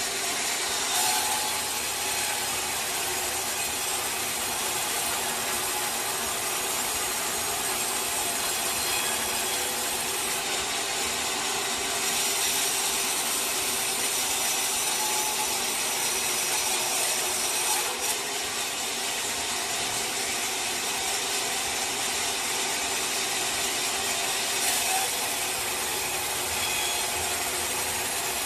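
Sawmill saw cutting through a teak log: a steady rasping hiss of the blade in the wood over a machine hum, with a few brief knocks.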